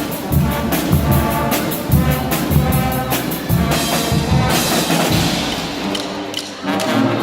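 Guggenmusik carnival band playing live: loud brass over a pounding drumbeat, with the drums dropping out about five seconds in.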